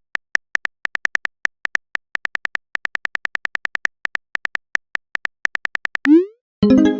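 Rapid, uneven run of short, high phone-keyboard typing clicks, then near the end a quick rising pop and a ringing message chime: a chat message being typed and sent.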